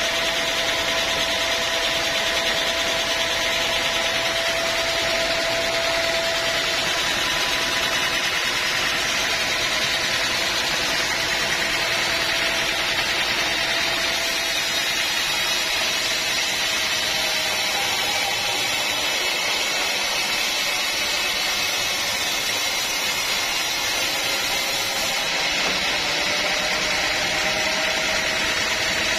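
Sawmill machinery running steadily: a continuous loud mechanical noise with a steady whining tone that fades out in the middle and returns near the end.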